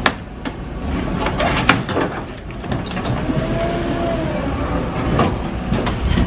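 An engine of the cleanup machinery running steadily, with several sharp metal clanks and knocks, the loudest a little under two seconds in, and a faint rising-and-falling whine in the middle.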